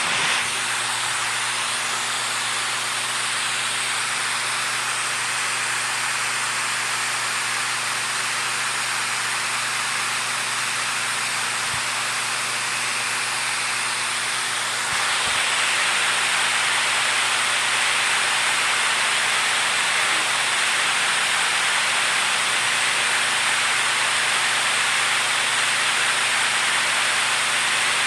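Rushing water, a steady, even hiss like a stream or waterfall, which grows a little louder and brighter about halfway through.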